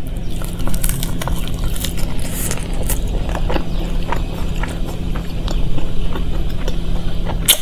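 Close-miked chewing of a soft mouthful of paneer bhurji wrapped in paratha, the mouth closed, with many small wet clicks over a steady low hum and one sharper click near the end.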